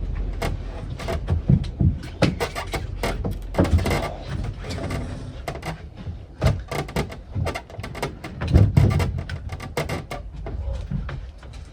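Wooden boat floor panel being tugged and worked loose: a run of irregular knocks and clunks of wood, with heavier thuds about a third of the way in and again around three-quarters through.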